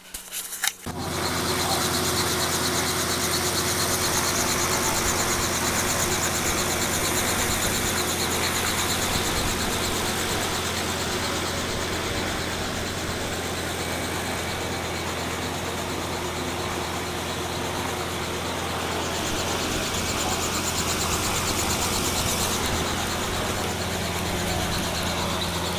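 An engine running steadily: a constant low hum with a hiss over it, starting about a second in and barely changing.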